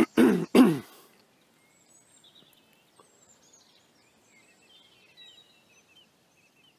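Two short bursts of a man's voice in the first second, then faint bird chirps and twitters over quiet outdoor background.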